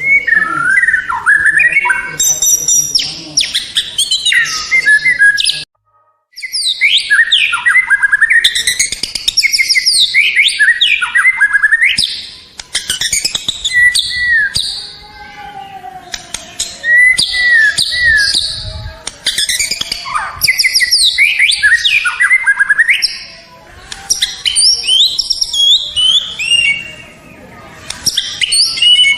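White-rumped shama (murai batu) singing a loud, fast, varied song of whistles, sweeping notes and rapid trills, with a short break about six seconds in.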